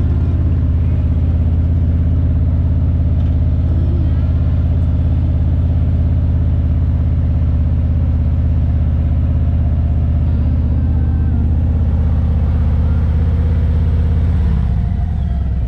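Motorcycle engine running steadily, its note dropping in pitch and level near the end.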